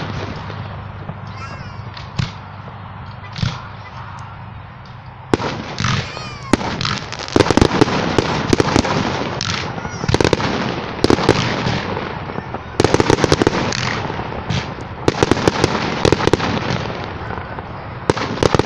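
Aerial fireworks bursting: a few separate booms in the first few seconds, then from about five seconds in a dense barrage of rapid bangs and crackling that keeps going.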